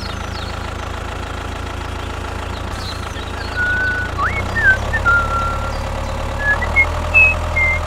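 Small engine running steadily at idle, a constant low hum. From about halfway in, short high whistled chirps sound over it.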